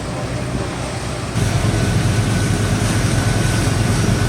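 Engine of a cruise-ship tender boat running steadily, with a low pulsing drone and a rush of wind and water noise. It turns abruptly louder about a second and a half in.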